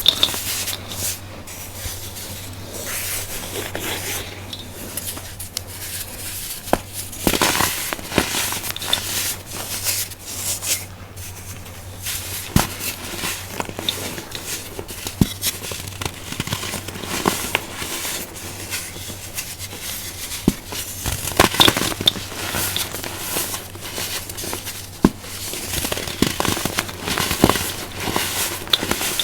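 Crunchy baking soda being crushed and crumbled: continuous crunching and crackling with many sharp snaps, in louder clusters now and then.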